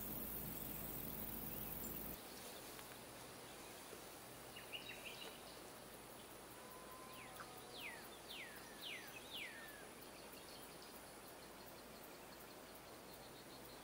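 Faint outdoor ambience with birds calling: a few short chirps, then a run of four quick whistled notes falling in pitch near the middle. A steady high insect buzz runs underneath, and the background hiss drops about two seconds in.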